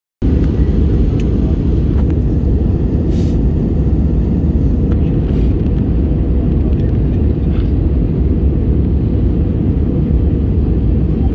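Steady low roar of an Airbus A320 cabin in flight, the jet engines and rushing airflow heard from a passenger seat.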